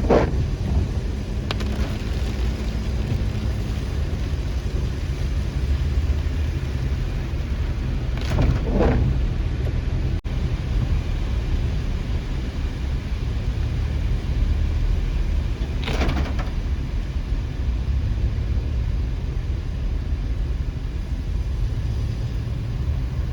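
Steady low rumble of a car on the move, with a few short swishes standing out near the start, about eight seconds in and again about sixteen seconds in.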